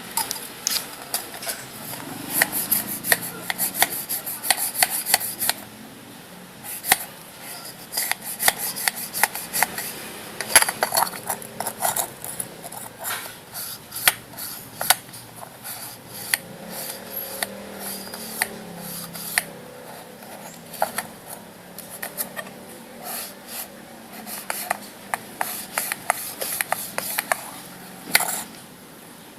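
Small hard parts being handled and worked by hand: irregular clicks, taps and scraping, with a quick run of clicks a few seconds in.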